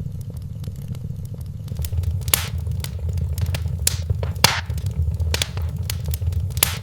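Wood fire crackling in a fireplace: a stream of small irregular snaps with a few louder pops, over a low steady rumble.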